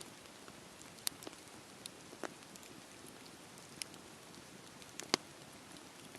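Campfire burning: a soft steady hiss with scattered sharp crackles and pops, a handful in all, the loudest about five seconds in.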